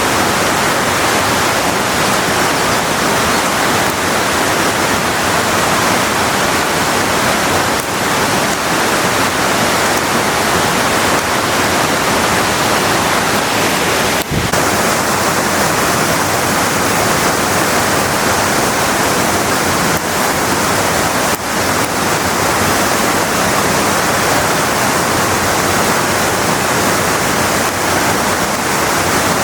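Steady, loud rush of a large waterfall, Kanba Falls, its falling water filling the air with an even roar.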